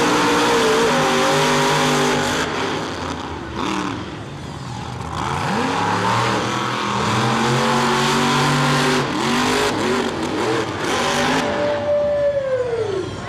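Monster truck engine revving hard, its pitch surging up and dropping back again and again. Near the end the revs fall away in one long slide.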